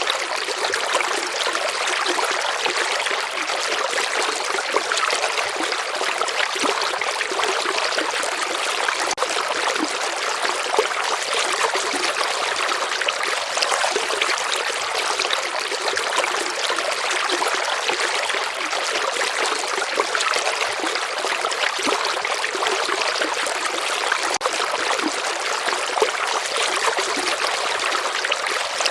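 Steady running water of a gently flowing stream or river, an even rushing hiss with fine trickling, mostly in the mid and high range with little low rumble.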